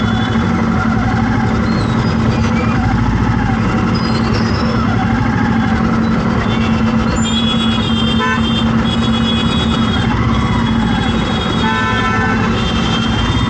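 Road traffic with engines running steadily under a continuous low hum, and vehicle horns honking repeatedly in the second half.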